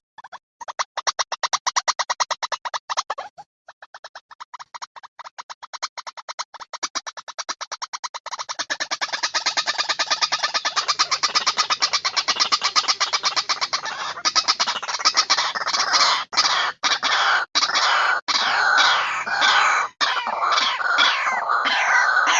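White-breasted waterhen (ruak-ruak) calls on a lure recording: a fast, even run of short clicking notes that grows denser and louder about eight seconds in. From about fourteen seconds it turns into harsher, overlapping calls with falling notes.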